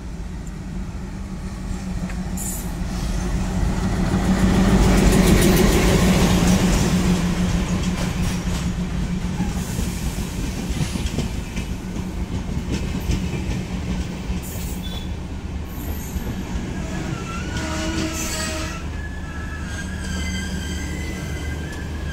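Madgaon–LTT double-decker express train rolling along the platform: a steady rumble of wheels on rail with a low hum, loudest about five seconds in. High-pitched wheel squeal comes in over the last few seconds.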